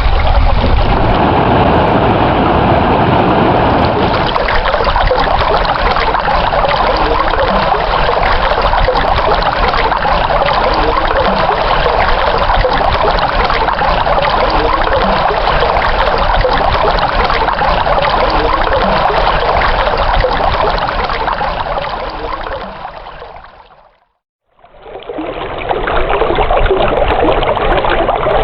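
Flowing stream water running steadily and loudly. It fades out about three-quarters of the way through, goes silent for a moment, then fades back in.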